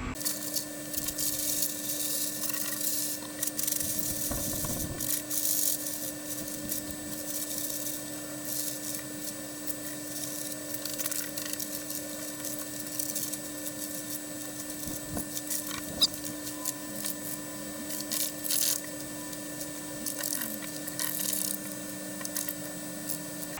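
Irregular scraping and rattling from handling and shaking out a wet plastic RC boat hull, over a steady electrical hum.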